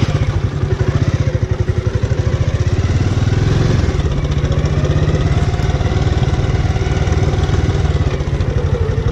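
Bajaj Avenger motorcycle's single-cylinder engine idling with a fast, even pulse, swelling slightly about three seconds in.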